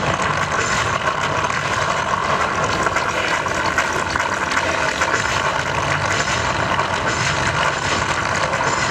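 Dense, steady rumbling sound effects from a projection-mapping show's soundtrack, played loud over outdoor loudspeakers.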